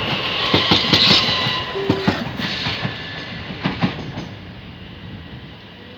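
Class 375 Electrostar electric multiple unit passing at speed, its wheels clacking over the rail joints. The clatter dies away over the last couple of seconds.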